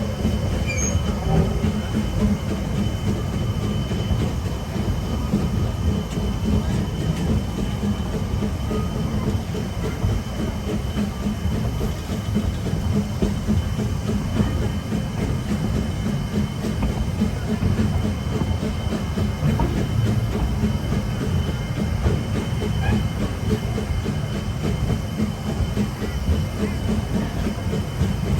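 Two-foot-gauge train running along the track, a steady low rumble of wheels on rails, with a faint steady high whine over it.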